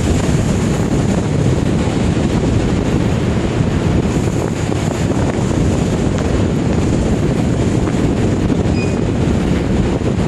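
Steady rush of strong typhoon wind and heavy seas, with wind buffeting the microphone.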